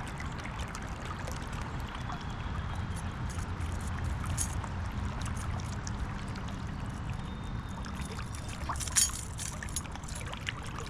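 Creek water running steadily, with a few small clicks and one louder knock about nine seconds in.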